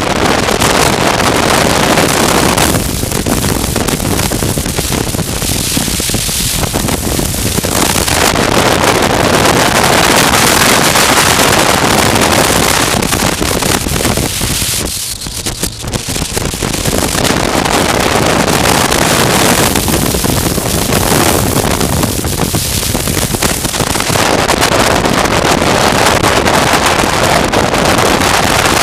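Wind buffeting the microphone of a moving motorcycle, a loud even rush that eases off briefly three times, most deeply about halfway through.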